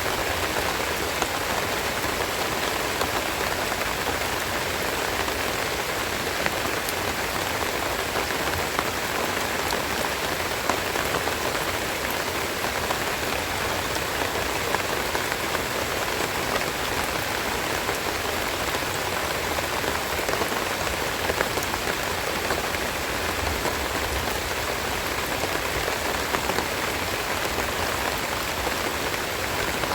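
Steady rain falling, with many small drops pattering on leaves and other surfaces close by.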